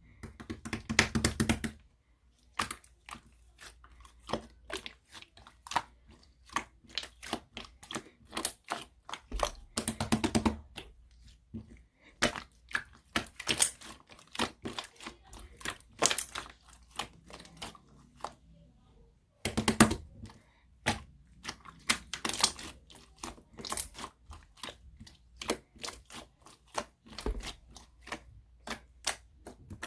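Chewy slime being pressed, stretched and folded by hand, giving sharp clicking and popping crackles as trapped air pockets burst. The clicks come in irregular runs, with dense flurries about a second in, around ten seconds in and twice more around twenty seconds in.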